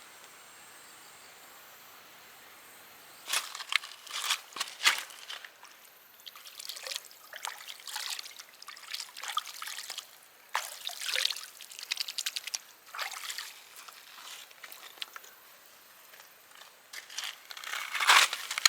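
Water sloshing and trickling in short, irregular bursts, starting about three seconds in.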